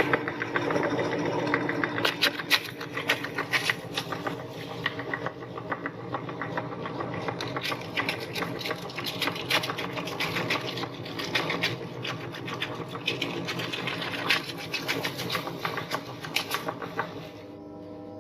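Electric meat grinder running, its motor humming steadily under rapid crackling and crunching as an item is ground through it. The crunching stops near the end, leaving only the motor hum.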